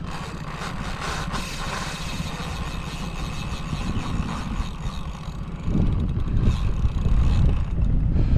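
Small boat's outboard motor running steadily, with wind buffeting the microphone; the low rumble grows louder about six seconds in.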